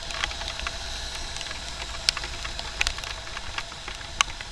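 Riding a motorbike in the rain: irregular sharp ticks of raindrops striking the microphone over a steady low rumble of wind and traffic. The loudest tick comes about four seconds in.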